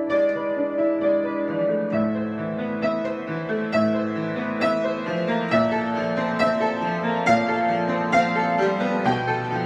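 Improvised solo piano music: held chords under a melody, with new notes struck on a steady pulse a little more than once a second.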